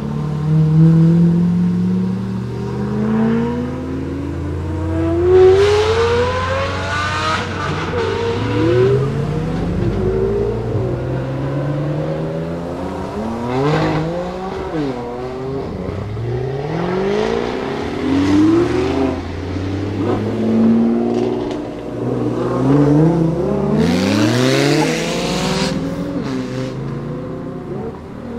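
Several cars accelerating hard one after another, each engine revving up through the gears in a run of rising pulls, the first a straight-piped Lamborghini Murciélago V12. The loudest pulls come a few seconds in and again near the end.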